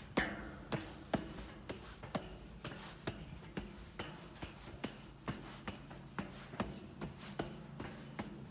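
Footsteps walking on a dirt trail, about two steps a second, each step a short crunch.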